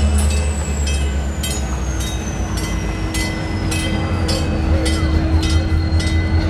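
Train running on rails: a steady low rumble with regular clicks of the wheels over rail joints, a little over two a second, and a thin high whine that slowly falls in pitch.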